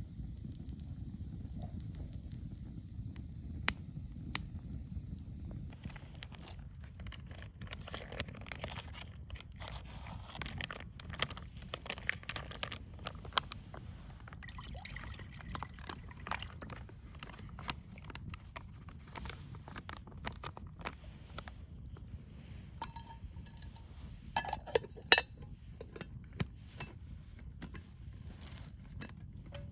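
Scattered crackles and small clicks over a low steady rumble, with one loud, sharp ringing clink about 25 seconds in, like glass or crockery being knocked.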